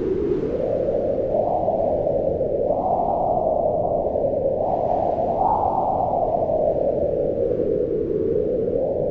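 Howling mountain wind: a steady low rush whose pitch swells up and sinks back in slow gusts, rising around three and five seconds in and falling away near the end.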